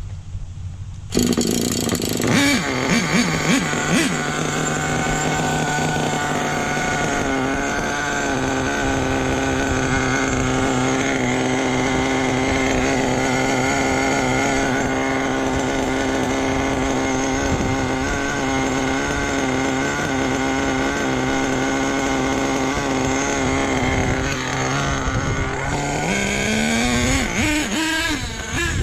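Small nitro RC truck engine starts abruptly about a second in and idles steadily with a buzzy drone, then rises in pitch as it revs up near the end. The owner judges the low-end needle still a little lean.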